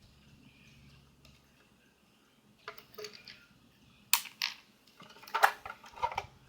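Near-quiet for the first couple of seconds, then a run of sharp clicks and knocks from small hard plastic parts being handled: a slot car and its plastic display case.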